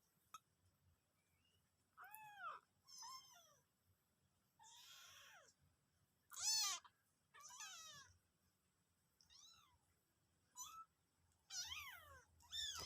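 Domestic cat meowing repeatedly: about nine short, high calls, each rising then falling in pitch, with brief pauses between them.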